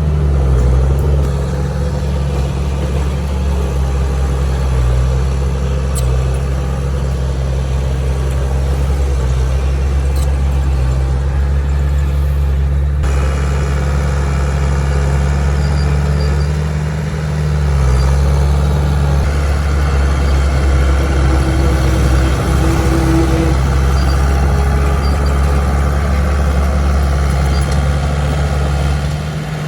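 Heavy-equipment diesel engine running steadily under work, with brief dips in its note about halfway through and again near the end.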